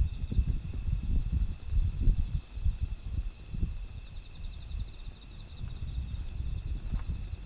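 Gusty typhoon wind buffeting the microphone in uneven low rumbles, strongest in the first few seconds. Insects chirp steadily underneath.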